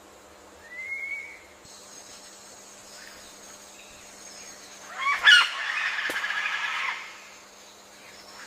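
Bird calls: a short rising whistled note about a second in, then a loud, harsh call about five seconds in that runs on as a rapid rattle for about two seconds.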